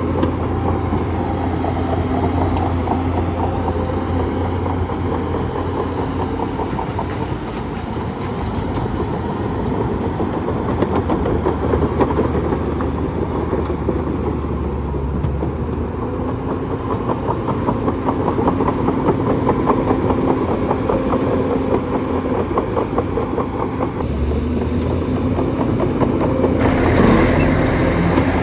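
Bulldozer's diesel engine running steadily, with a dense, fast mechanical rattle throughout and small swells in level.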